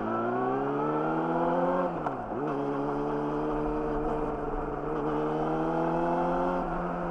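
Yamaha YZF-R6's inline-four engine through an Akrapovic slip-on exhaust, accelerating under load with rising revs. About two seconds in, the revs drop sharply and pick up again, as at an upshift, then climb steadily. Near the end there is a smaller drop in revs.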